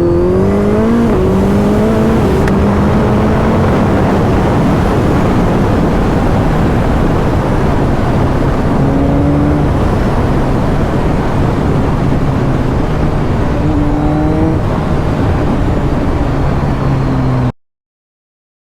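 Inline-four superbike engine running hard at speed after a full-throttle pull, its pitch rising and settling with gear changes, under heavy wind rush on a helmet microphone. The sound cuts off abruptly near the end.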